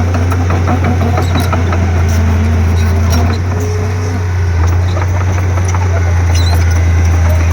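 Komatsu D31P crawler bulldozer's diesel engine running steadily under load, a strong low drone with scattered clicks and clanks from the tracks and pushed soil.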